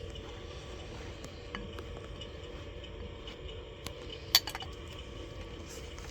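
Light clicks and scraping from handling hive parts while sorting through dead bees, with two sharp clicks a little past four seconds in, over a steady low hum.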